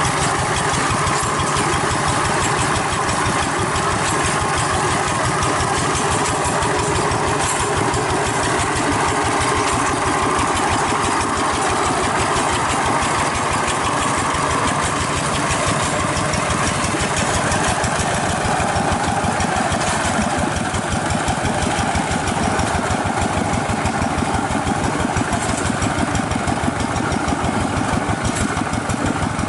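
Hand tractor's single-cylinder diesel engine running steadily, with a fast, even chug of firing strokes.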